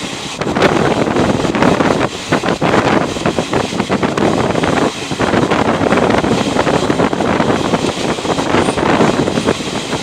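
Passenger train running at speed, heard from on board: the noise of the moving train mixed with wind rushing over the microphone, loud and fluctuating with brief dips.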